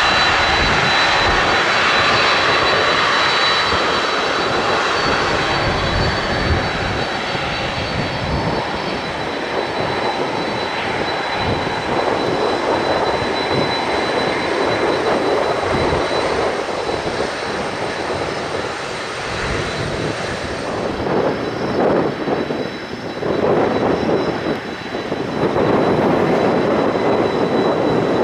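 Jet airliner engines running, a continuous noise with a thin steady high whine, shifting and swelling unevenly near the end. Strong gusty wind buffets the microphone throughout.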